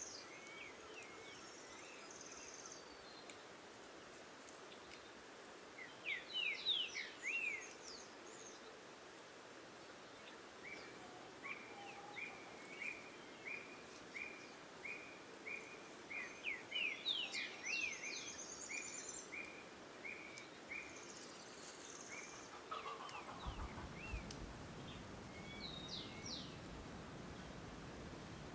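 Wild birds calling: clusters of quick sweeping chirps, a run of short even notes about two a second through the middle, and high trills. A low rumble comes in near the end.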